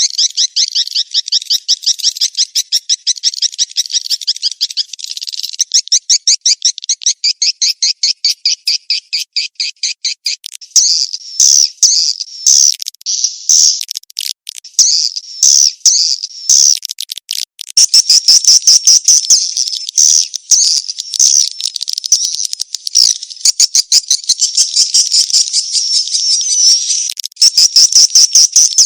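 Swiftlet lure call (mating-chase calls) used to draw swiftlets into a nesting house: a fast, even run of high chirps, changing about ten seconds in to louder, more varied twittering.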